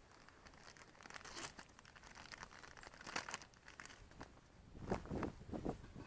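Crinkling and rustling of material being handled, with a few heavier knocks near the end.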